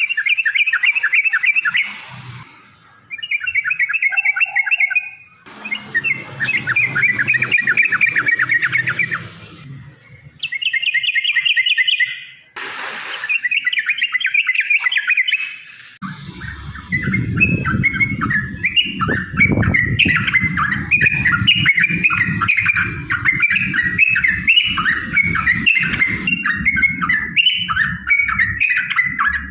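Yellow-vented bulbul (trucukan) chattering song: fast, bubbling runs of notes in separate phrases with short gaps. There is a brief hiss about halfway through. After that the birds sing a long unbroken run with overlapping calls over a low rumble.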